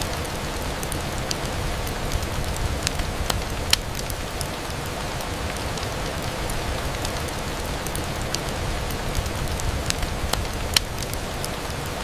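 Steady rain on a window, an even hiss with scattered sharp ticks of drops striking; two ticks stand out, about four seconds in and near the end.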